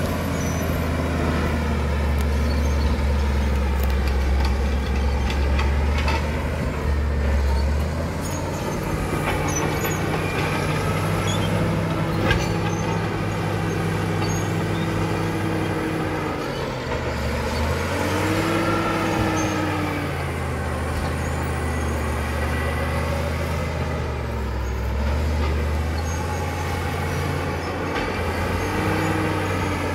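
Caterpillar D7 bulldozer's diesel engine working under changing load, its pitch rising and falling several times over a deep steady rumble. A single sharp knock about twelve seconds in.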